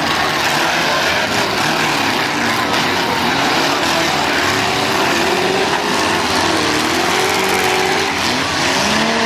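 Several demolition derby cars' engines running and revving, their pitch wavering up and down over a steady loud din.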